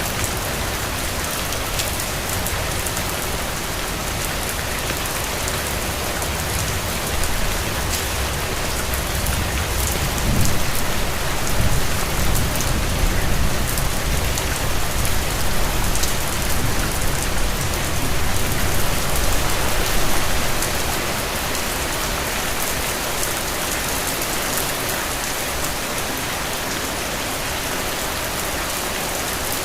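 Steady rain falling, a dense patter of drops. A low rumble swells in about ten seconds in and dies away about ten seconds later.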